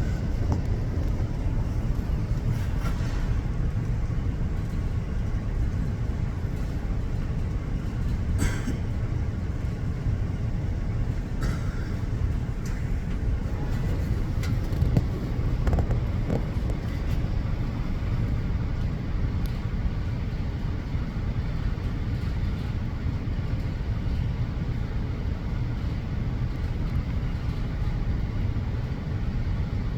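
Steady low outdoor rumble, with a few faint short clicks about eight and eleven seconds in.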